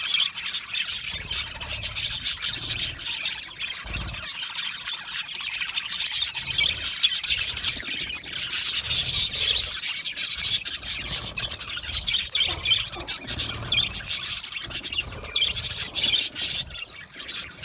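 A colony of budgerigars chirping and chattering continuously, with many short calls overlapping. There is a brief low thud about four seconds in.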